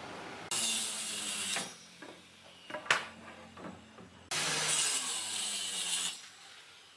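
A tool cutting or working wood in two bursts of a second or two each, with a single sharp knock between them.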